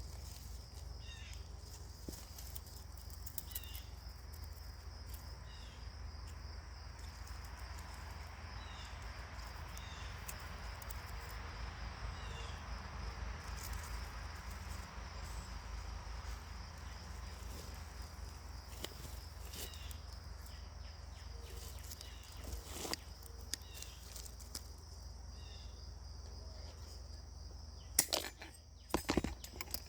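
Birds singing in the background, short chirps every second or two, over a steady high insect-like buzz and a low hum. A soft rush swells and fades in the middle, and a few sharp clicks come near the end.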